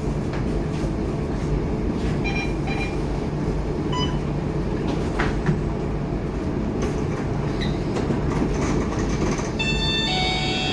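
Scania K230UB city bus on the move: a steady low rumble of its five-cylinder diesel engine and road noise, with a few brief high rattles and squeaks, and a cluster of high tones in the last second.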